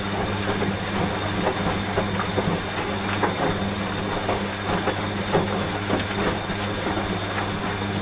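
Rain falling, with many small drops pattering, over a washing machine running with a steady low hum.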